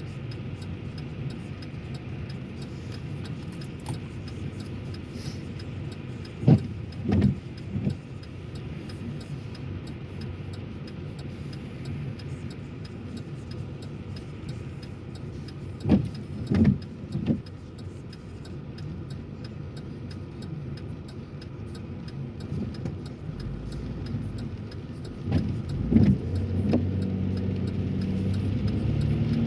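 Car interior while driving in the rain: steady engine and road noise. Short thumps come in groups of two or three about every ten seconds, and the engine grows louder near the end as the car speeds up.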